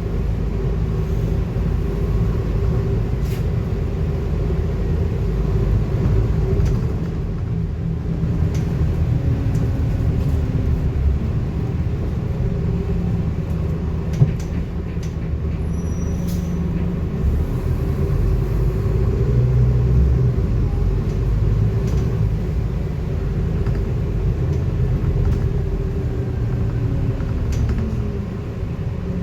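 Scania N230UD double-decker bus under way, heard from inside the cabin: a steady low engine and road rumble with a constant whine, its pitch rising and falling a few times as the bus speeds up and slows. A single sharp click sounds about halfway through.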